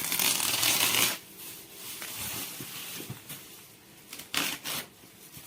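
Packaging being handled and opened for unboxing. A loud rasping noise lasts about the first second, then come softer rustles and a few light knocks, with a short rustling burst near the end.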